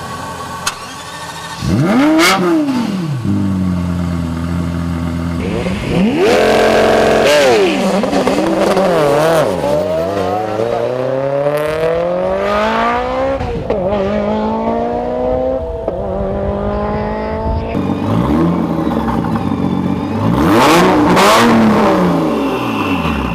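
High-performance cars at full throttle in a string of cut-together shots. Their engines climb in pitch through the gears with sudden drops at each upshift, and cars pass by with the engine note sweeping up and then down, about two seconds in and again near the end.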